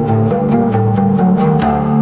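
Arabic-style instrumental music: an oud plucking a melody of quick single notes over low held notes.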